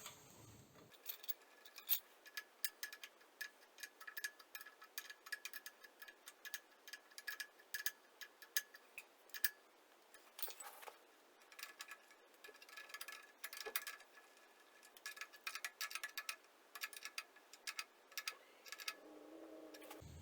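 Light, irregular metallic clicks and taps of hand tools on pipe fittings as a fabricated metal tube is fitted to a compressor. Some of the clicks ring faintly.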